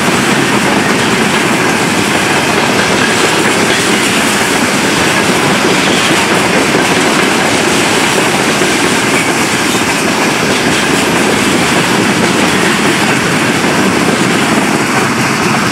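Freight train of tank cars and hopper wagons rolling past at close range: a steady, loud rumble and clatter of steel wheels on the rails.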